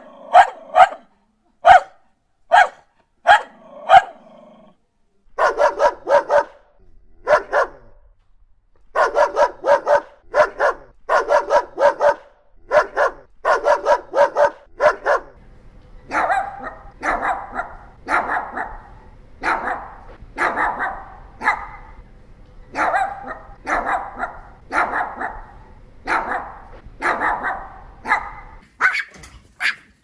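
Dogs barking in three runs. First come single sharp barks about one a second, then quick barks in bunches of three or four. From about sixteen seconds in, a Pomeranian barks steadily, about three barks every two seconds.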